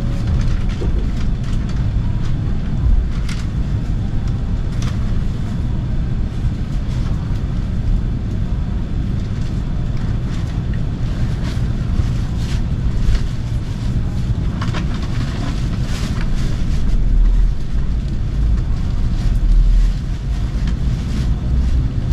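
Steady low rumble inside a Shinkansen bullet-train carriage, with a few faint clicks. It swells briefly near the end as the train starts to pull out of the station.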